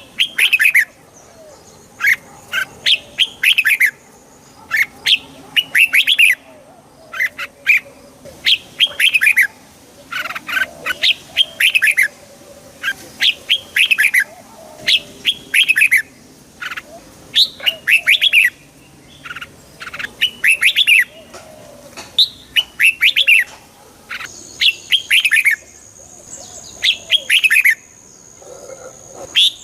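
Red-whiskered bulbul singing: short, quick phrases of a few bright notes, repeated every second or two.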